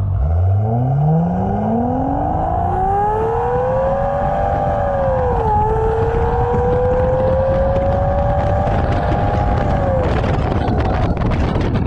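Jaguar V12 engine and exhaust under hard acceleration from low revs, its note rising steadily in pitch. There is a quick upshift about five and a half seconds in, then it pulls more slowly through the next gear before easing off near the end.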